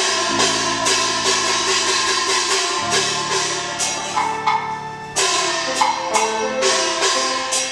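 Taiwanese opera (gezaixi) ensemble music: instruments hold a sustained melody while sharp percussion strikes land several times a second.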